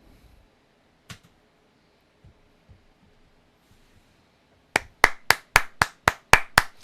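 One person clapping, about ten quick, sharp claps in the last two seconds. A single click comes about a second in.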